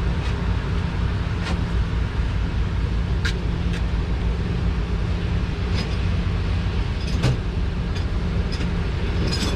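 Steady low rumble like distant traffic or machinery, with a few faint light clicks and knocks scattered through it.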